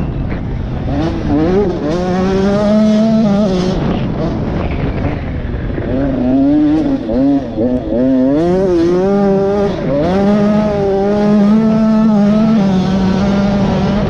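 KTM 85 two-stroke motocross engine working hard while ridden, its pitch rising and falling again and again as the throttle is opened and closed, holding steady for stretches in between.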